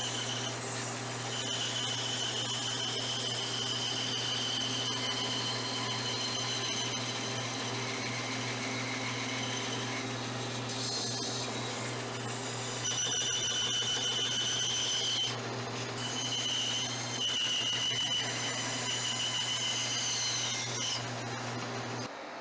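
Band saw running and cutting a leopard wood and spalted birch glue-up: a steady motor hum with a high blade whine that comes and goes as the wood is fed, and a few brief falling squeals. The sound changes abruptly near the end.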